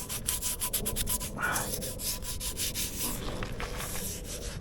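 Quick, irregular rubbing strokes, like scrubbing or wiping a metal motorcycle exhaust while cleaning rust off it.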